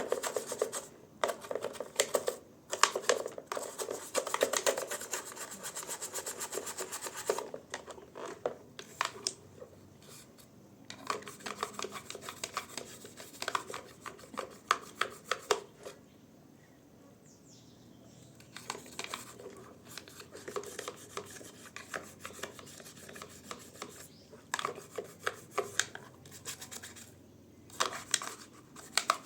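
Hand scrubbing during cleaning of a washing machine: runs of quick rubbing strokes, pausing briefly about halfway through before starting again.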